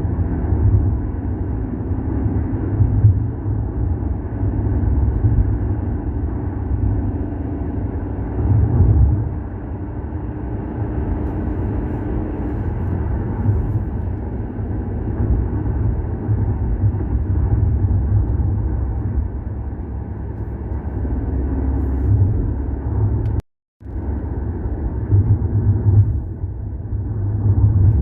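Volkswagen Golf 6 TSI driving: a steady low rumble of engine and road noise, rising and falling slightly. The sound cuts out for a moment near the end.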